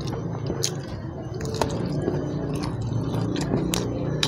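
A person chewing a mouthful of fried duck offal, wet mouth sounds with a few sharp crunchy clicks. The offal is firm and chewy.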